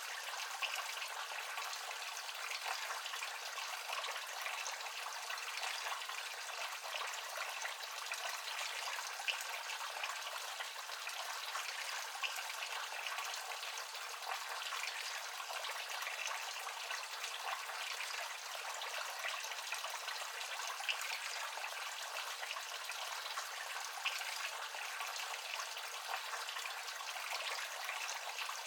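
Tiered resin garden fountain running: water bubbling from the top and pouring from several spouts into the bowls below, a steady splashing trickle.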